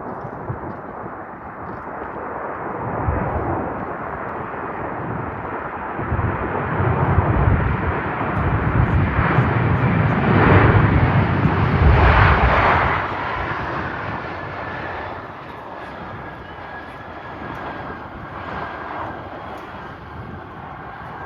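Jet airliner passing by: a roar that builds, peaks about halfway through, then fades, leaving a thin whine. Gusts of wind buffet the microphone with low rumbles during the loudest part.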